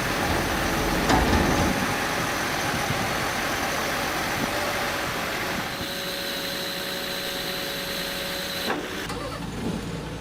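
Engines of heavy machinery running, with a sharp knock about a second in; the sound changes abruptly about six seconds in and again near nine seconds.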